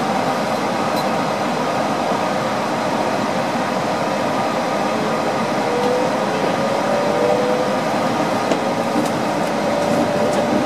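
On-board running noise of a Yurikamome rubber-tyred automated guideway train pulling away on its concrete guideway: a steady rumble and hiss. From about halfway a thin whine rises slowly in pitch as the train gathers speed.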